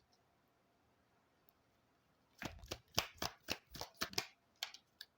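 Deck of oracle cards being handled and shuffled by hand, giving a quick irregular run of short, sharp card snaps and taps that starts about halfway through, after a near-silent pause.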